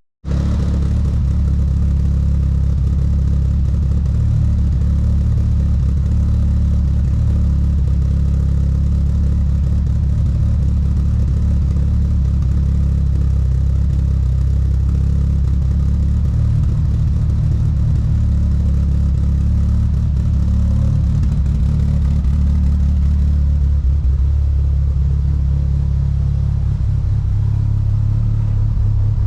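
Turbocharged DSM's 4G63 four-cylinder, with GSC S2 camshafts and running on E85, idling steadily, set at about 1050 rpm. A split-second gap in the sound at the very start.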